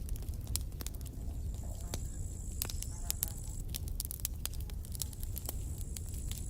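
Campfire burning: wood crackling with frequent sharp pops over a low steady rumble of the flames. A faint high whistle comes in about a second and a half in and again near the end.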